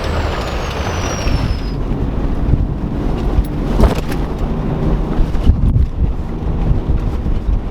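Vehicle driving over rough desert ground: a loud, steady low rumble with irregular knocks and jolts.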